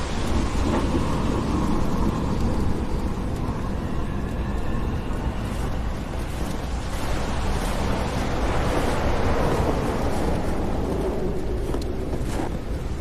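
Storm sound effect: a steady rush of wind-like noise over a deep low rumble, the sound of a blizzard.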